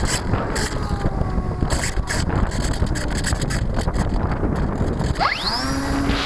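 Strong wind buffeting the microphone, over the faint whine of the Multiplex FunCub RC plane's electric motor. About five seconds in, the motor's whine rises sharply in pitch as it is throttled up.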